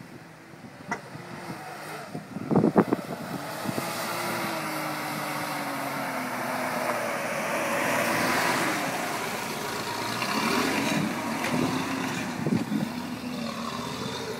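Toyota Land Cruiser 40-series engine working up a muddy off-road climb, its note falling and rising as it is revved. It is loudest as it passes close by just past the middle, then fades as it pulls away. A cluster of loud thumps about two and a half seconds in.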